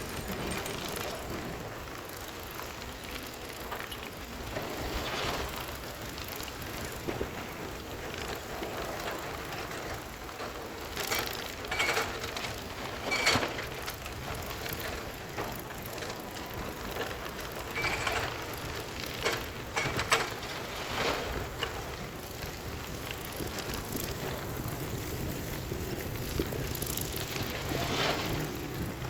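Heavy machinery working: a steady noisy mechanical rumble broken by short bursts of scraping and clanking, in clusters near the middle and again near the end.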